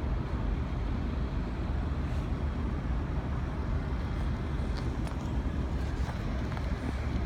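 Steady low outdoor rumble of city background noise, with a few faint, short, high bird chirps about two and five seconds in.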